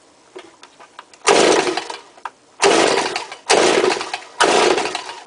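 Stihl BG86 two-stroke leaf blower being pull-started cold on choke: four loud rasping bursts from the recoil starter, each fading within about a second, with the engine not catching, a sign it needs more priming.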